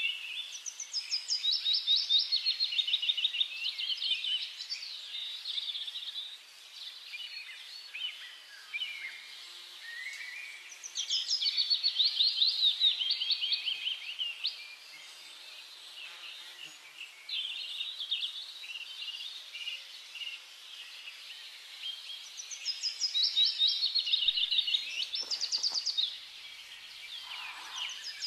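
Birds chirping in rapid, high-pitched trilling runs. They come in bursts, loudest at the start, around the middle and again near the end.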